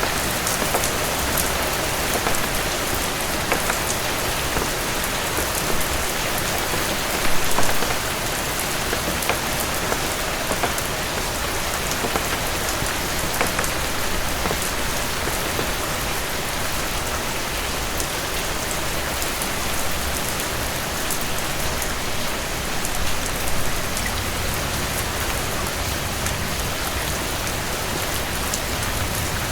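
Heavy rain falling steadily on a cabin porch, a dense even hiss peppered with small sharp crackles from a wood fireplace. The rain swells briefly louder about seven seconds in and again about two thirds of the way through.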